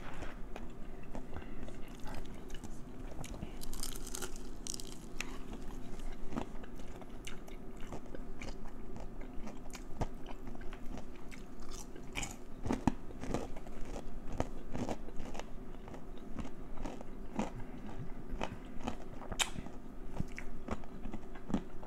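Close-up eating sounds: a person biting and chewing crispy fried chicken, with irregular crunches and wet chewing.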